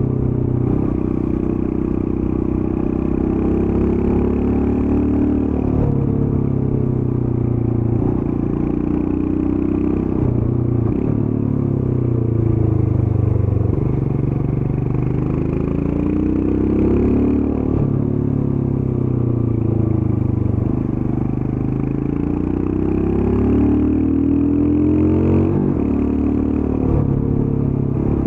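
Royal Enfield Scram 411's single-cylinder 411 cc engine through its stock exhaust, under way. The revs climb and drop back sharply again and again, about every three to six seconds.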